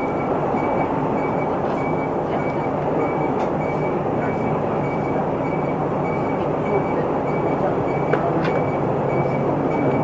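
Steady engine and road noise inside an Isuzu Erga Mio diesel route bus on the move. A high beep repeats about twice a second throughout, with a few faint clicks near the end.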